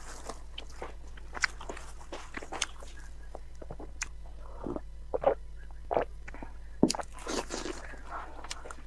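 Close-miked eating sounds: biting and chewing braised meat off the bone, with many short wet mouth clicks and smacks. A few gulps of a drink come around the middle, all over a low steady hum.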